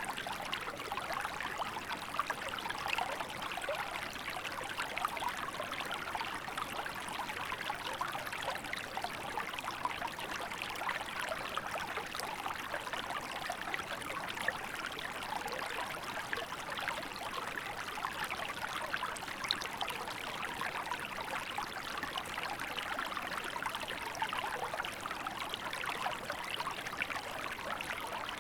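A small river running over rocks in winter: steady babbling and trickling flow, even throughout.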